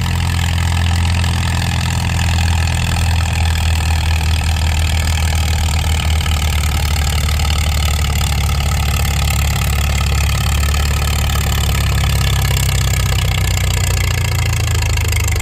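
Antique tractor engine running steadily under heavy load, pulling a weight-transfer sled down the track.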